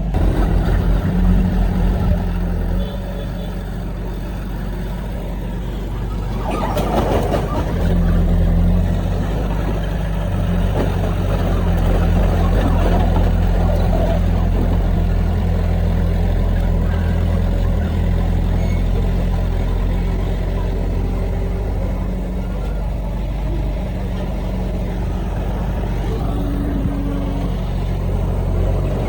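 Heavy diesel earthmoving machinery running with a steady low drone, with a short noisy rush about seven seconds in.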